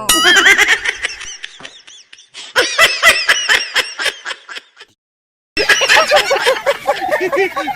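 Laughter sound effects: three short clips of rapid, bouncing laughter in a row, each cut off by a brief silence.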